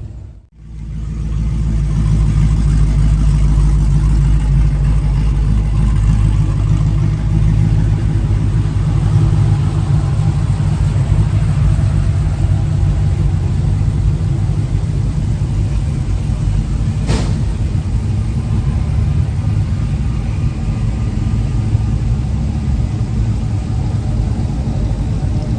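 A truck engine running steadily with a deep, low exhaust rumble, and one sharp click about two-thirds of the way through.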